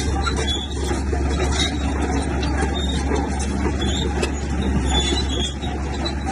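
Heavy earthmoving machinery working: a large diesel engine running steadily, with short high metallic squeaks scattered through it.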